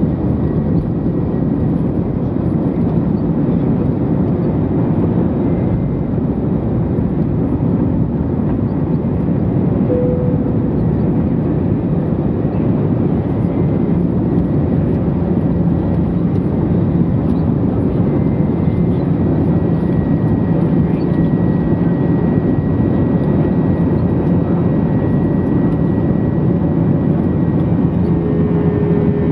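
Lufthansa airliner's jet engines running steadily: a continuous low rumble with a faint steady whine above it, growing slightly louder about halfway through.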